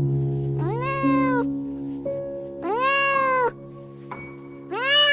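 Domestic cat meowing three times, each meow rising then falling in pitch and lasting under a second, over background music with sustained tones that fade out after the second meow.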